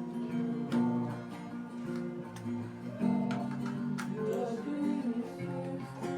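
Acoustic guitar picking and strumming slow chords over sustained keyboard notes, in a gentle instrumental passage of a worship song.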